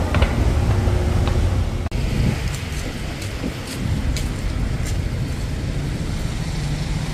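Road traffic: a steady low rumble of passing cars, with a few light clicks and a cut about two seconds in.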